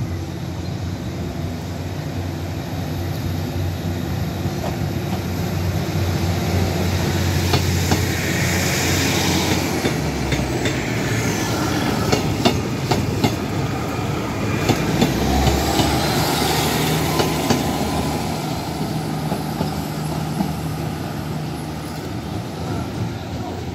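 A diesel multiple unit passes close by over a level crossing. Its engines drone steadily, changing note twice as the cars go past, with a run of wheel clacks over the crossing's rail joints through the middle as the sound swells and then fades.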